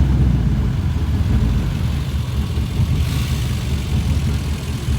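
Car engine running with a steady low rumble, and a brief hiss about three seconds in.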